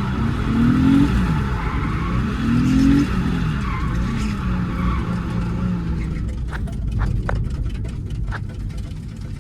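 Nissan 350Z's VQ35 V6 revving hard twice, its pitch climbing and dropping back, then holding steady. After about six seconds it fades away, with a few sharp cracks.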